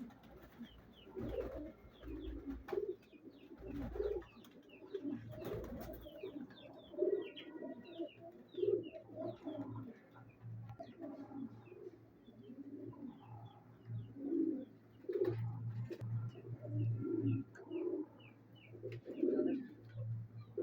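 Pigeons cooing over and over, several low coos overlapping, with a steady patter of short high chirps from other birds behind them.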